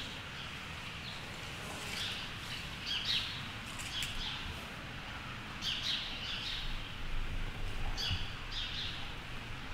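Small birds chirping: short, high chirps every second or two, over a steady low background rumble.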